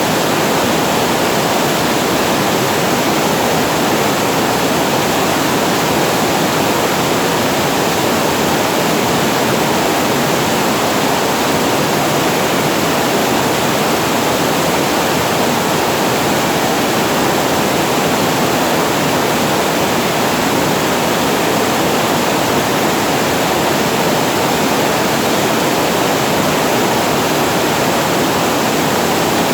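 Water pouring over a reservoir weir as a small waterfall, a steady, even rush that never lets up.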